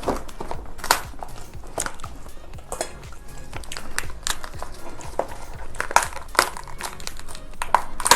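Irregular sharp cracks, crackles and crinkles of lobster being broken apart and handled for eating, the loudest snaps about a second in, around six seconds in and near the end, over soft background music.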